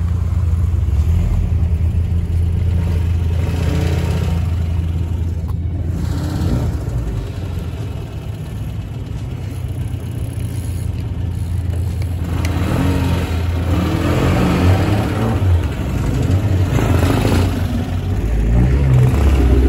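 A car engine running with a steady low rumble, growing louder and fuller from a little past the middle.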